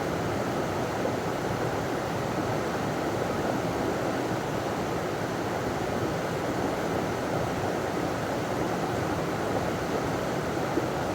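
River water pouring over a small waterfall: a steady, even rush.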